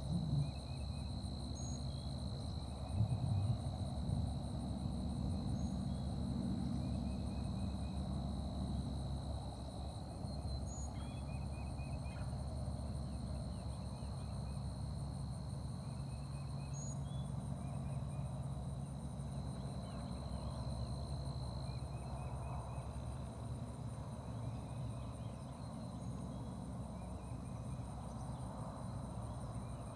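Wild birds calling outdoors: short series of quick chirping notes repeat every few seconds, with an occasional brief high whistle, over a steady high buzz and a steady low rumble.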